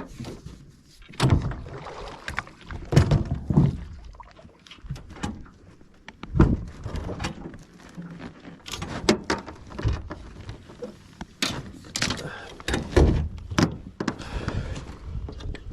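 Irregular knocks and thumps from handling gear in a small fishing boat, over a low rumbling haze.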